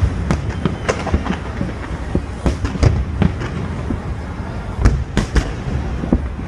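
Fireworks going off: many sharp bangs and cracks at irregular intervals, several a second, over a continuous low rumble of overlapping explosions.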